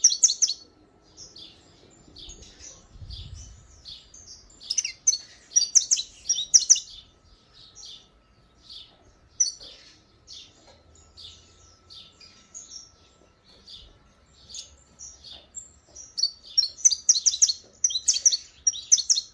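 Saffron finch singing in bursts of rapid, high chirping notes: dense loud phrases at the start, about a third of the way in and again near the end, with sparser, quieter notes in between. A faint steady hum runs underneath.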